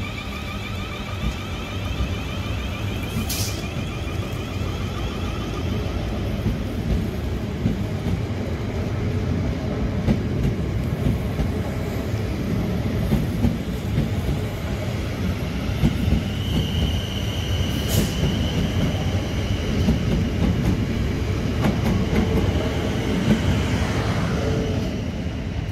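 South Western Railway Class 444 electric multiple unit passing close by, with a steady rumble of wheels on rail and a high whine that fades out about six seconds in and returns later. Two sharp clicks come about three seconds in and again after about eighteen seconds, and the rumble drops away just at the end as the last coach passes.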